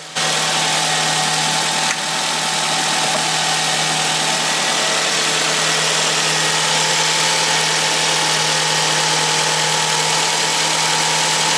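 Nissan X-Trail engine idling steadily with a freshly replaced alternator turning on the belt; the sound holds even throughout, with a steady hum under a wide hiss. There is no grinding from the alternator: the new bearings are quiet.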